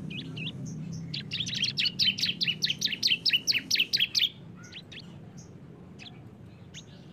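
Bar-winged prinia (ciblek) song in the fast 'ngebren' style: a rapid run of sharp, high chirps, about five a second, for roughly three seconds, then a few scattered single notes.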